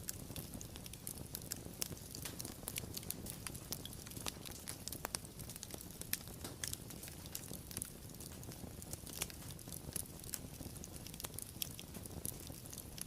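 Wood fire crackling: frequent irregular sharp pops and snaps over a soft steady low rumble of burning.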